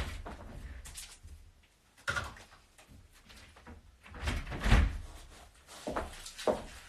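Several knocks and thuds of household things being handled and set down, the loudest a heavy thump about five seconds in.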